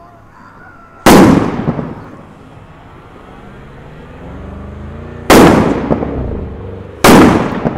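Fireworks from a homemade chain of fused items going off: three loud bangs, about a second in, about five seconds in and near the end, each trailing off in a rumbling echo.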